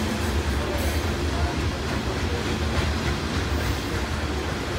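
Freight train of covered hopper grain cars rolling past, its steel wheels on the rails making a steady low rumble.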